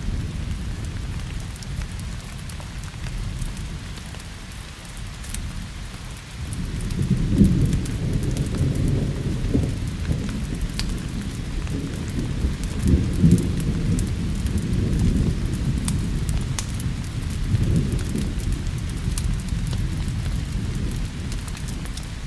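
Steady rain with rolling thunder: a low rumble swells up about six seconds in and rolls on in waves for about ten seconds before easing. Scattered sharp light ticks sound over the rain.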